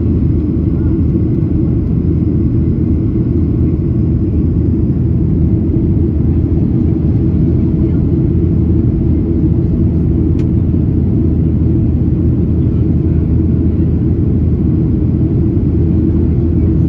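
Steady low rumble of a Boeing 737-800's cabin in flight: CFM56 engine and airflow noise, with one faint click about ten seconds in.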